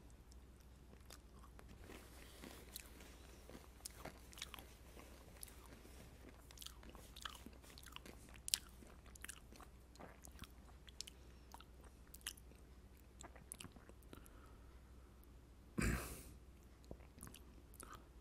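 Crunchy cheese-and-barbecue-coated mushroom popcorn being chewed: a stream of faint, irregular crunches. Near the end there is one brief, louder noise.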